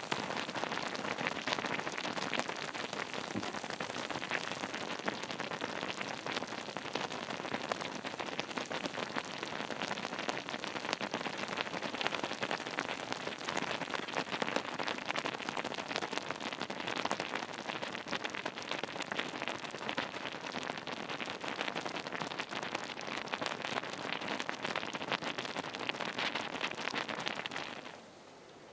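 Wood campfire crackling and popping steadily, a dense run of small snaps. It cuts off suddenly near the end, leaving a faint hiss.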